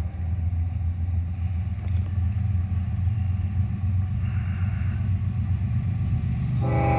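A CSX diesel-hauled freight train rumbling steadily past. About six and a half seconds in, a steady chord of tones from a locomotive comes in suddenly.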